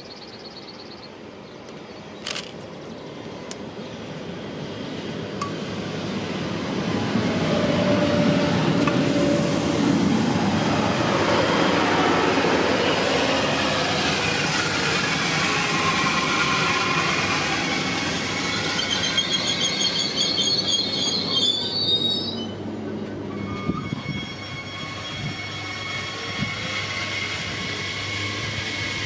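A train passing: its rumble builds over several seconds, rushes past with tones that fall in pitch, then fades. A wavering high squeal from the wheels comes about twenty seconds in.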